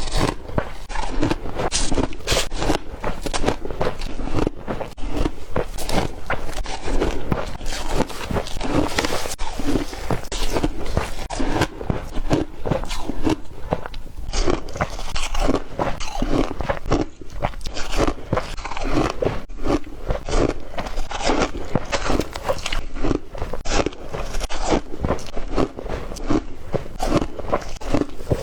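Ice cubes being bitten and chewed: a steady run of crisp crunches, two to three a second.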